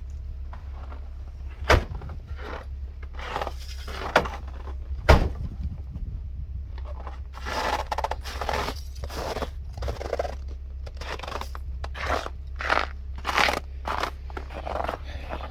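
Crunching footsteps, with three sharp clicks or knocks in the first five seconds.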